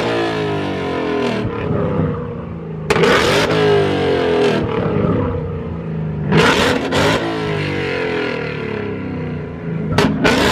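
Car engines revving hard, their pitch climbing and falling, with three short, louder bursts of noise about three seconds in, around six and a half seconds, and near the end.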